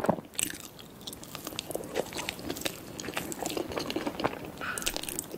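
Close-miked mukbang eating sounds: irregular chewing, smacking and wet mouth clicks of someone eating a soft cake coated in sticky red glaze.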